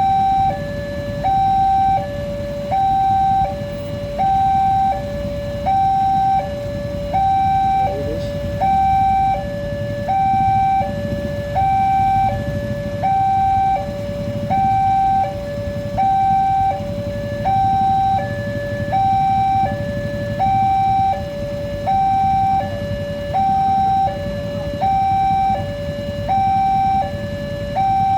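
Railway level-crossing warning alarm sounding a two-tone signal, alternating high and low about once a second without a break, while the crossing is closed for an approaching train. A low rumble runs underneath.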